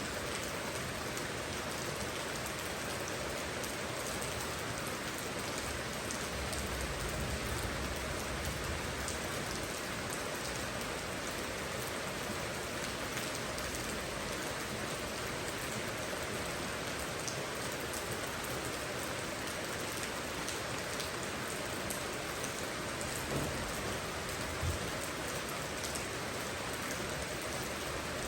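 Steady rain falling, an even hiss with many small drops ticking through it. Near the end there are two brief low thumps.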